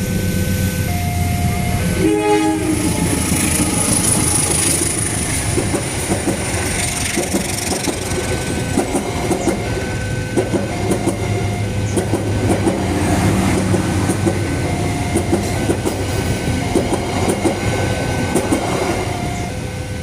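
A train passing over a level crossing: a short horn blast about two seconds in, a diesel locomotive's rumble, then wheels clacking over the rail joints, denser in the second half. Under it the crossing's electronic warning alarm keeps sounding two alternating tones, about once a second.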